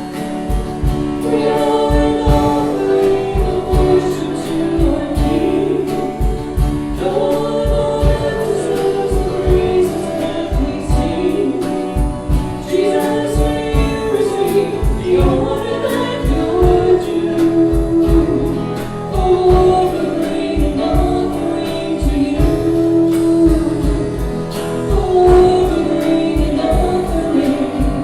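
Contemporary Christian worship song sung by a group of voices over a band, with a steady beat.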